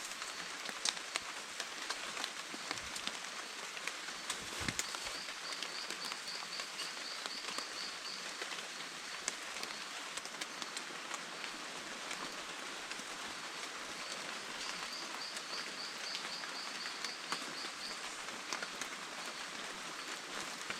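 Steady rain falling on forest foliage, with scattered sharp drip ticks. Twice a high, evenly pulsed call repeats at about three or four pulses a second for a few seconds.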